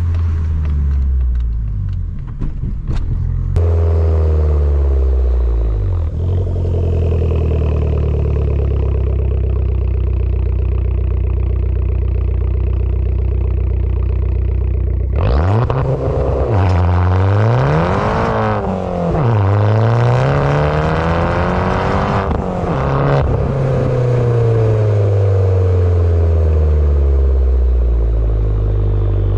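Tuned Abarth 595 Competizione's turbocharged 1.4-litre four-cylinder with a full 60 mm free-flowing exhaust, running at a steady low pitch for about fifteen seconds. It then revs up and down several times, and the pitch falls slowly near the end.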